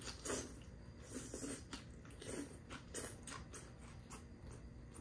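A person chewing a mouthful of udon noodles in spicy gochujang sauce, close to the microphone: quiet, irregular chewing and mouth sounds.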